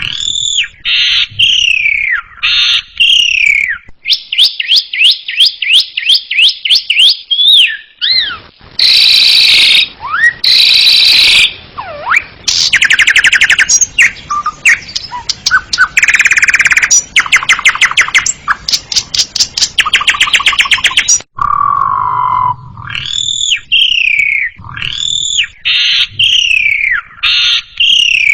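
Asian pied starling (jalak suren) singing loudly: repeated falling whistled phrases, then harsh buzzy notes and fast clicking rattles through the middle, returning to the whistled phrases near the end.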